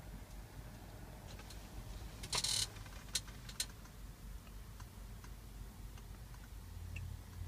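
Handling noise in a quiet truck cab: a short scrape about two seconds in, then two sharp clicks and a few fainter ticks.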